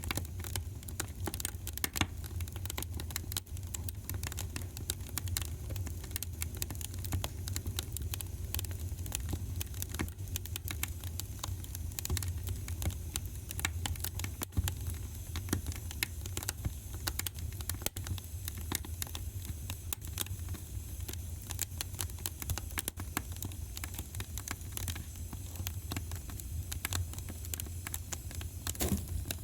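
Wood fire crackling in a fireplace: dense, irregular small pops and snaps over a steady low rumble of the flames.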